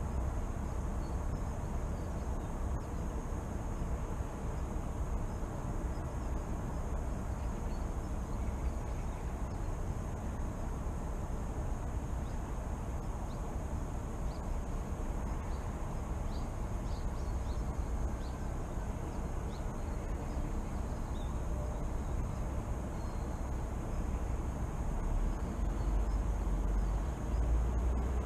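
City morning ambience: a steady low rumble of distant traffic, with faint short bird chirps in the middle. The low rumble swells near the end, as of a vehicle coming closer.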